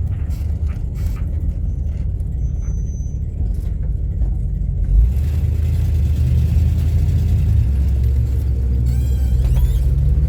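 Low, steady rumble of a car's engine and road noise heard from inside the cabin while driving. A single thump comes about five seconds in, after which the engine note grows a little stronger. A brief high warbling sound comes near the end.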